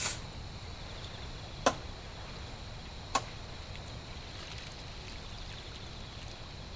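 Three short, sharp taps about a second and a half apart over a steady low background hiss.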